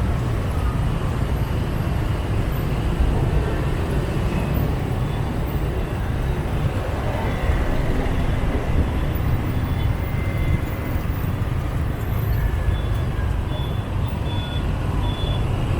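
City street traffic heard from a moving motor scooter: a steady rumble of engines, tyres and wind with scooters passing. Near the end a row of short high beeps repeats.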